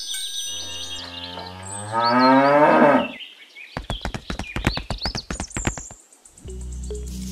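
A cow mooing: one long moo that rises in pitch and grows loudest near its end, about three seconds. A quick run of sharp clicks follows, and steady low music comes in near the end.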